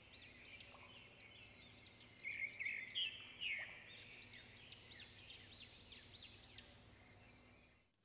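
Small bird chirping: a steady run of short, high notes, about three a second, stopping abruptly just before the end.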